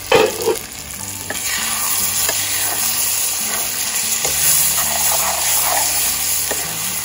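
Metal spatula stirring and scraping smoked pork and taro stems in an iron kadai, with a steady sizzle of frying. The water has cooked off and the oil is starting to separate. There is a loud knock at the start.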